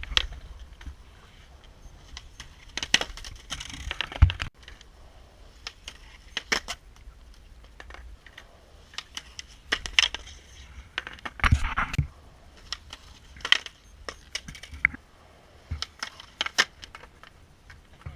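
Skateboard rolling with a low steady rumble, broken by scattered sharp clacks and knocks of the board and trucks. There is a heavy thump about four seconds in and a cluster of loud knocks around eleven to twelve seconds.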